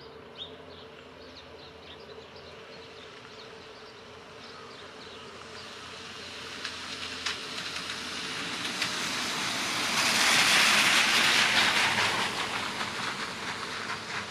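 A car driving past: its road noise swells to a peak about two-thirds of the way through, then fades as it moves off.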